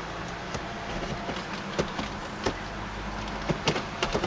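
Steady low hum inside the cabin of a 1995 Lexus LS400 idling, with several light clicks and taps from about half a second in.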